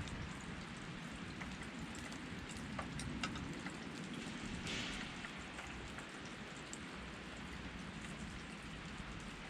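Steady rush of a flowing river with scattered small crackles and pops from a wood campfire; the hiss swells a little about halfway through.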